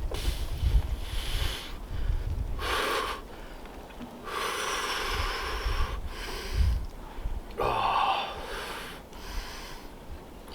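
A man breathing hard and deliberately through the cold shock of a 36-degree ice bath, with several long, hissing breaths in and out.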